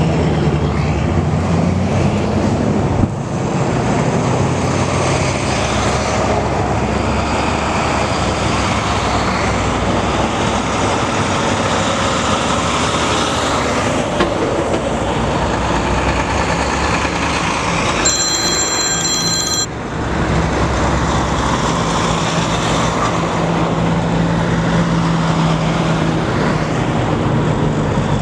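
Diesel truck engines running steadily in a convoy of big rigs, a dense, continuous engine noise. About two-thirds of the way through, a brief high-pitched tone sounds for under two seconds.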